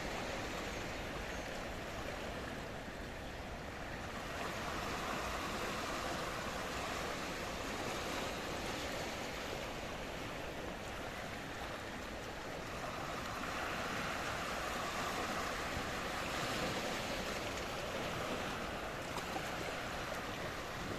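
Sea waves washing in, a steady rush of surf that swells twice, about four seconds in and again around thirteen seconds in.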